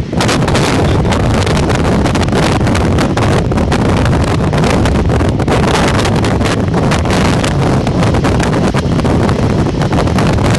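Heavy wind buffeting the microphone aboard an open motorboat under way, over the steady noise of the boat running on the water.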